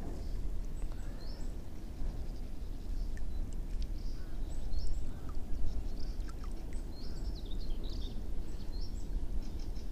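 Small birds chirping in short, repeated calls over a steady low rumble of open-air noise.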